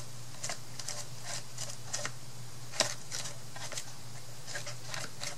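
Light, irregular clicks and small scratching taps from craft materials being handled at a worktable, with one sharper tick near the middle, over a steady low hum.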